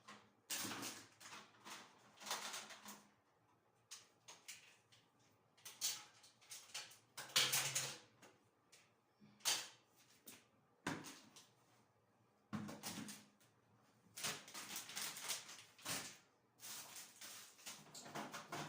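Cleaning and handling noises in a small room: a string of irregular rustling and clattering bursts, each about a second long, with short quiet gaps between them.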